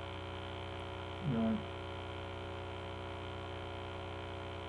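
Steady electrical mains hum with a ladder of even overtones, and a short murmur from a person about a second and a half in.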